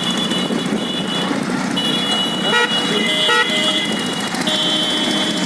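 A vehicle's engine running steadily, with high-pitched, steady tones that start and stop several times over it.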